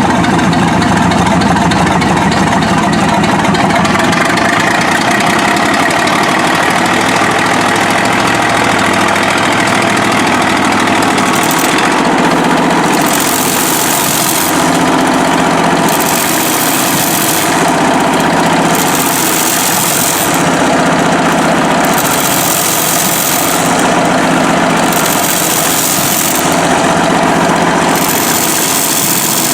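Stationary antique diesel engine running steadily. From about twelve seconds in, a hissing rush of air joins it, coming and going about every three seconds.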